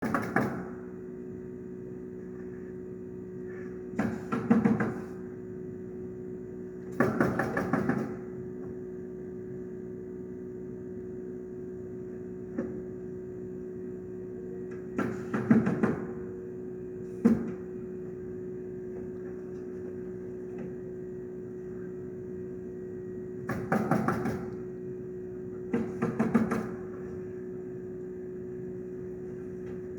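Roofers nailing asphalt shingles with a nail gun: short clusters of several rapid sharp shots, repeated every few seconds, with one lone shot between them. A steady low hum runs underneath.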